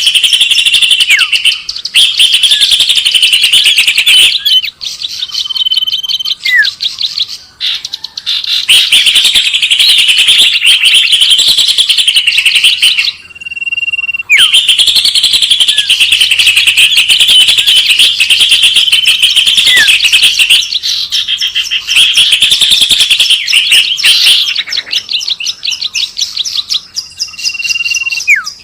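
Small songbirds' chirping from a bird-lure recording: long bursts of fast, high chirps and trills broken by short gaps, with a few short steady whistles and quick downward-sliding whistle notes in between.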